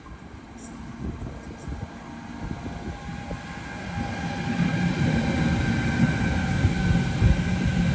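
A train coming in on the line, its rumble growing louder from about halfway through, with a steady whining tone over it.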